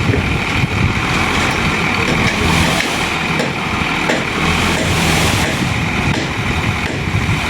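Motor vehicle engine running steadily, with a constant rumble and noise and no sharp events.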